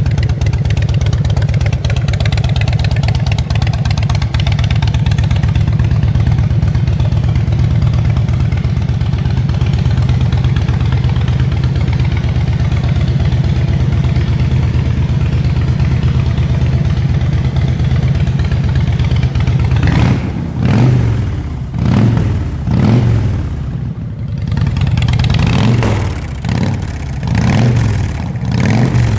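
Harley-Davidson Softail motorcycle's V-twin engine idling steadily, then, about two-thirds of the way through, revved in a series of short throttle blips that rise and fall.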